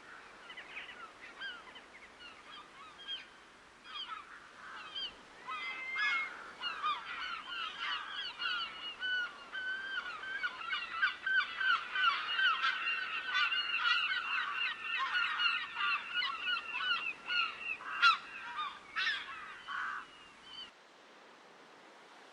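A flock of geese honking: scattered calls build to many overlapping honks, then stop abruptly near the end, leaving a soft steady rush of wind or water.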